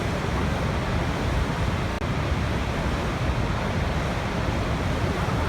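Waterfall: water falling and rushing in a steady, unbroken roar that is heaviest in the low end.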